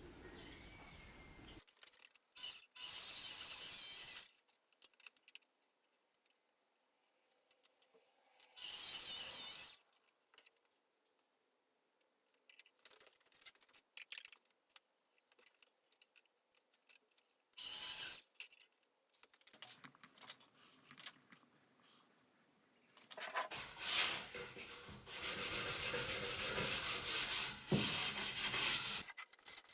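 Hand work on a wooden plank: a few short rasping scrapes of about a second each, then a longer run of steady rasping strokes near the end.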